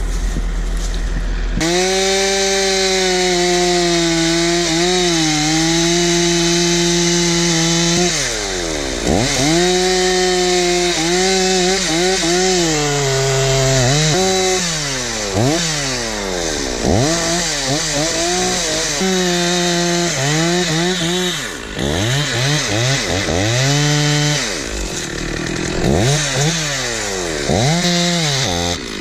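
Stihl 046 two-stroke chainsaw jumping to full throttle about two seconds in and holding a steady high note through a cut. From about eight seconds in it is revved up and down over and over, the pitch rising and falling with each blip of the throttle.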